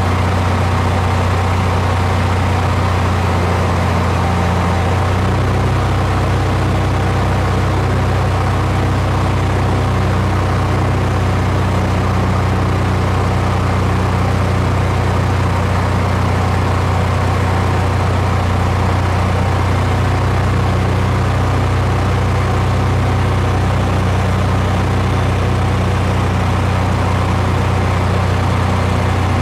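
Steady drone of a light aircraft's engine heard on board, a strong low hum under a wide hiss, with a slight change in tone about five seconds in.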